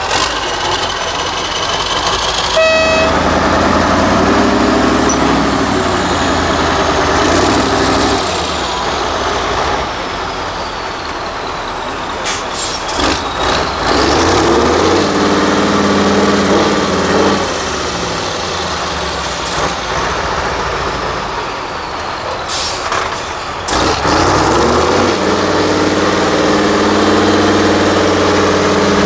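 Diesel engine of an 8x8 Mercedes-Benz trial truck revving hard in three long surges, with lower running between them. A few short hisses of air come near the middle and again about three-quarters through.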